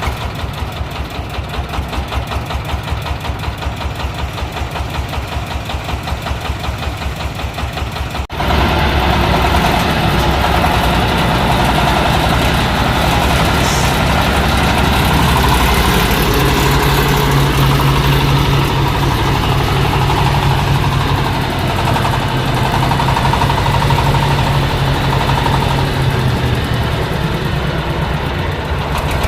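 Dong Feng 26 HP diesel engine driving a corn sheller, running with a steady pulsing chug. About eight seconds in the sound changes abruptly to a louder, denser machine run with a steady low hum.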